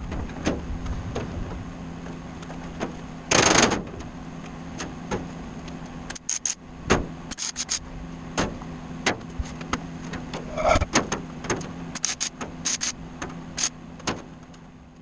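A series of irregular sharp clicks and knocks over a steady low hum, with a short noisy buzz about three and a half seconds in.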